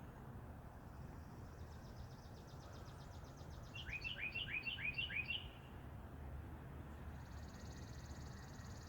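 Songbirds singing faintly: a phrase of five quick rising chirps about four seconds in, with a fast buzzy trill before it and another near the end, over low background noise.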